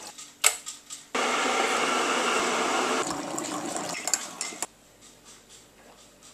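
Coffee being poured into a cup: a clink, then a steady rush of liquid for about two seconds that tails off with a few light clinks.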